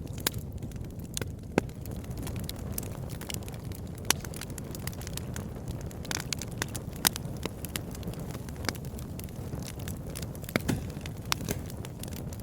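Campfire burning: irregular sharp crackles and pops over a steady low rumble, with a handful of louder snaps scattered through.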